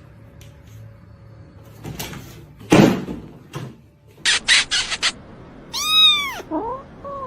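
A domestic cat meows once, a long call that rises and then falls in pitch, followed by two shorter, softer calls near the end. Before it come a loud noisy thump-like burst and a quick run of four short hissy bursts.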